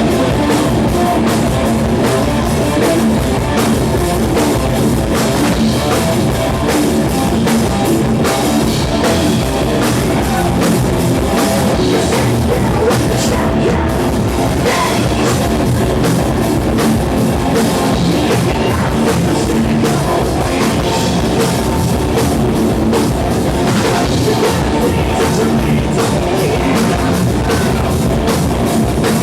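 Live rock band playing loud with distorted electric guitar and a drum kit, heard as a dense, steady wall of sound.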